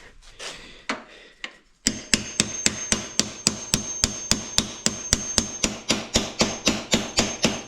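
Hammer striking metal in a quick steady series of blows, about four a second, starting about two seconds in, with a thin high metallic ring over the strokes: hammering at a seized bolt on a quad's chain slide.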